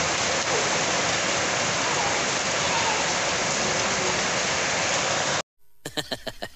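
Heavy rain falling, a steady hiss, which cuts off abruptly about five and a half seconds in; a few faint clicks follow near the end.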